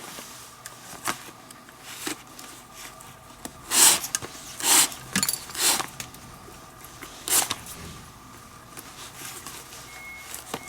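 Leather lace being drawn through the lace holes of a baseball glove during relacing: four short, sharp pulls in the middle, with a few lighter clicks of handling. Near the end a short electronic beep starts repeating, about once a second.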